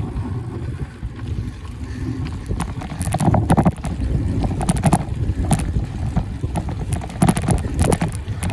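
Wind buffeting a phone's microphone on a moving bicycle, with a low rumble and scattered rattling clatters, mostly in the second half.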